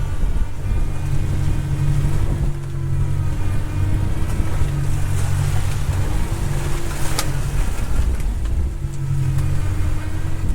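A fishing boat's motor running steadily, its pitch and level swelling and easing slightly every couple of seconds, over a haze of wind and water noise. There is one sharp knock about seven seconds in.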